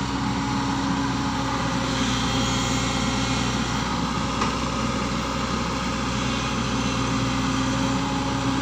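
A machine engine running steadily at constant speed, an even hum that does not change.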